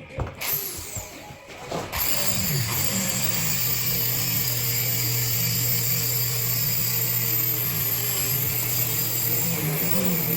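A few knocks, then about two seconds in an electric power saw starts and runs steadily, cutting along the line in a plaster wall.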